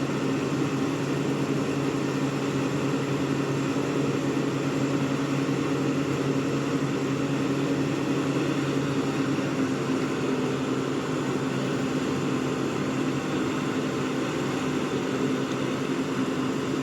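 Heavy machinery engine running steadily at constant speed: an even, unchanging hum.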